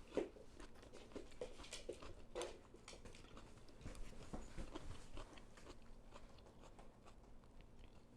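A person chewing crunchy fresh vegetables close to the microphone: faint, irregular crunches and small mouth clicks.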